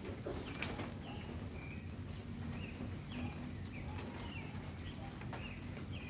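A bird chirping over and over, short high notes about once or twice a second, over a steady low city rumble.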